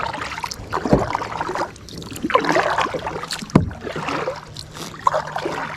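Kayak paddle strokes swishing and splashing in the water, with two sharp knocks, about a second in and about three and a half seconds in, typical of the paddle striking the kayak's hull.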